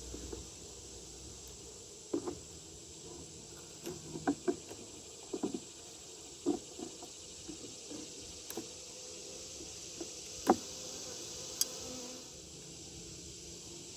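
Honeybees buzzing steadily around an open hive, with irregular knocks and clicks scattered through; the sharpest knock comes about ten and a half seconds in.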